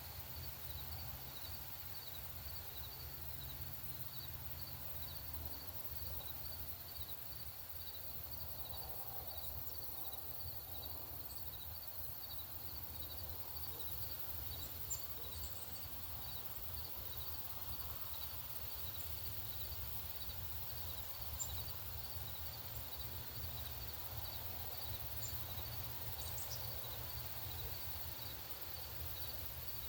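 Outdoor ambience: a steady low rumble under a high, even chirp repeating about twice a second, with a few brief, sharp bird chirps scattered through, two of them a little louder.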